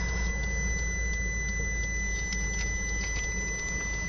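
A steady high-pitched tone over a low rumble, with faint scattered ticks.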